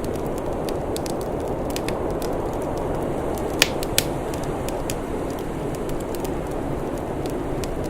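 Wood fire crackling: scattered small snaps and two sharp pops about three and a half and four seconds in, over a steady low rushing background.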